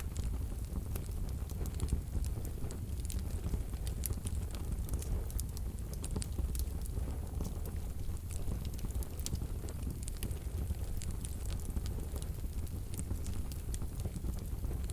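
Wood fire burning in a wood-burning stove: a steady low sound of the flames with soft, irregular crackles from the burning wood.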